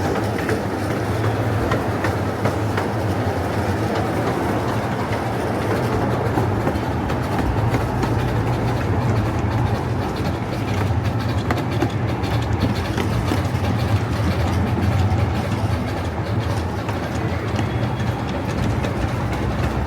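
Ole Smokey, a small coal-fired amusement-park steam train, rolling steadily along its track: a continuous low rumble of wheels on rail with faint clicks over the rail joints.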